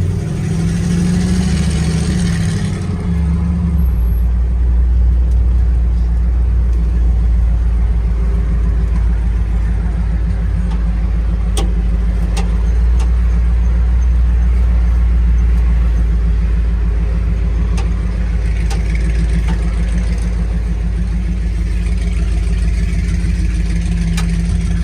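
Engine of a 1972 Ford F250 pickup running steadily with a deep, low drone through its dual exhaust with cherry bomb mufflers. The sound shifts about four seconds in, then holds even.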